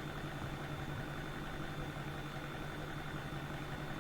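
Steady mechanical hum with a faint high whine, even throughout.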